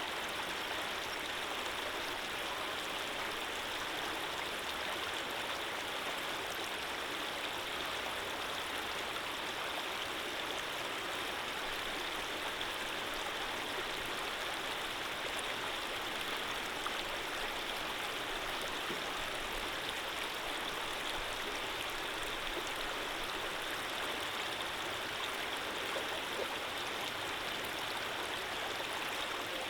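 Running water flowing steadily, an even rushing with no pauses or changes.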